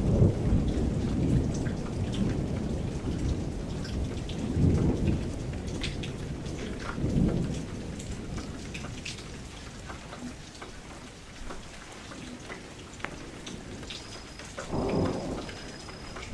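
Rain falling steadily against a window, with scattered sharp drop ticks and low rolls of thunder rumbling four times: at the start, around the middle twice, and near the end.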